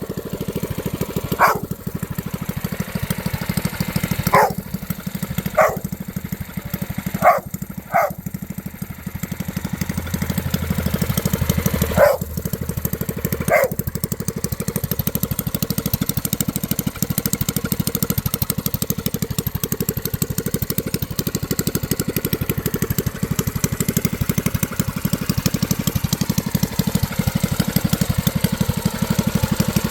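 Predator 212cc non-Hemi single-cylinder engine with a straight pipe, idling steadily on a mini bike. A dog barks about seven times in the first half.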